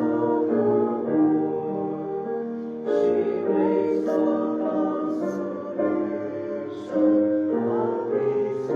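A hymn sung by voices with piano accompaniment: held sung notes sliding between pitches, with the hiss of sung consonants every second or so.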